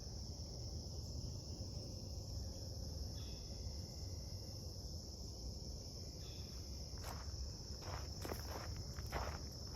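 Steady high-pitched drone of insects. About seven seconds in, footsteps begin crunching on the dry creek bed.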